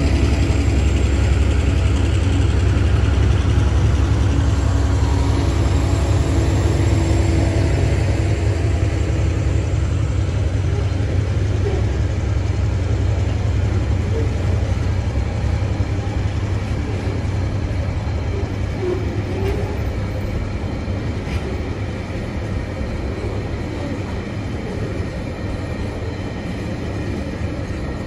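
Tasrail freight train's container and empty log wagons rolling past: a steady low rumble of wheels on rail that slowly fades.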